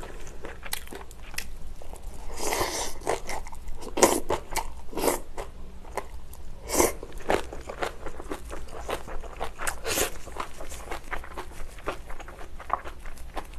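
Close-miked chewing of kimchi and rice: a steady run of crisp, wet crunches and small clicks, with a few louder crunchy bites scattered through.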